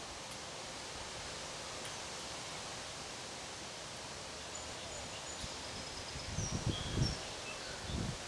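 Strong wind blowing through trees: a steady rustle of leaves, with gusts buffeting the microphone in low thumps from about six seconds in. A few faint, short high chirps sound in the middle.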